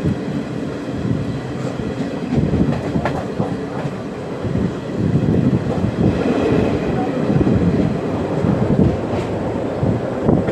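A passenger train running along the track, heard from on board: a steady noise of wheels on the rails with occasional faint clicks.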